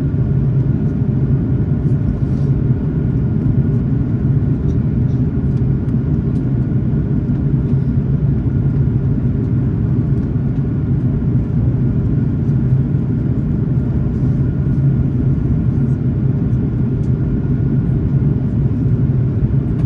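Airbus A330-300 cabin noise in the climb, heard over the wing: a steady low rumble of the engines and rushing air, with a faint steady high tone above it.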